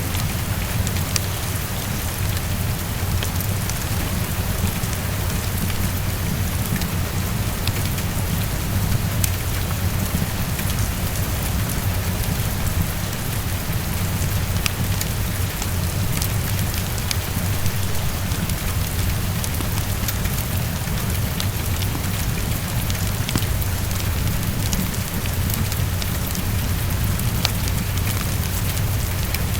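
Heavy rain falling steadily against a window, an even hiss over a constant low rumble, with scattered sharp little ticks throughout.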